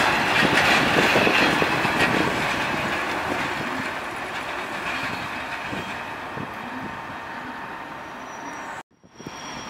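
A Class 143 Pacer diesel railbus running past and drawing away, its rail and running noise fading steadily as it goes. The sound breaks off sharply near the end.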